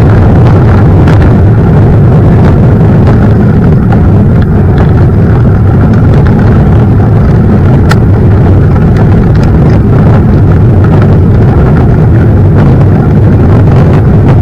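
Mountain bike riding a trail: wind buffeting the microphone and the bike rolling over rough ground make a loud, steady low rumble. There is one sharp click about eight seconds in.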